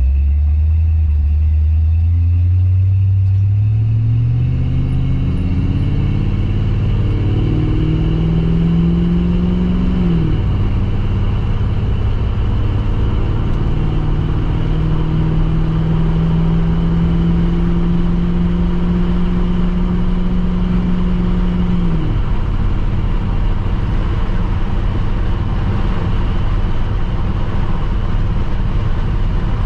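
1972 Chevrolet C10 pickup's engine under way: its pitch climbs steadily for about ten seconds as the truck accelerates, drops at a gear change, holds steady at cruise, then drops again a little past the two-thirds mark as it eases off, all over a constant road rumble.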